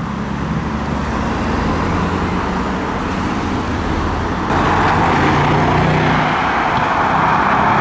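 A car engine running at low speed, with steady road and traffic noise; a louder rushing noise comes in suddenly about halfway through.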